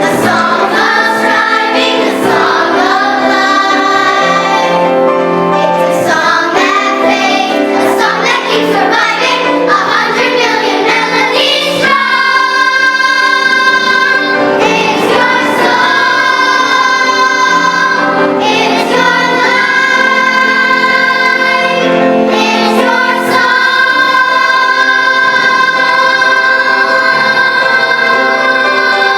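Children's chorus singing a musical-theatre song with instrumental accompaniment, the melody moving quickly at first and then settling into long held notes in the second half.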